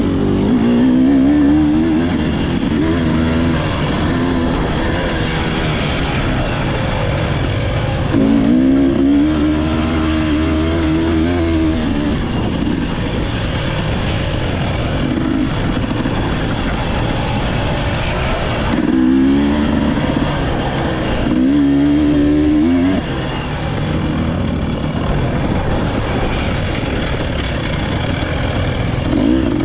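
Off-road motocross/enduro motorcycle engine under way, its revs repeatedly rising and falling as the throttle is opened and closed.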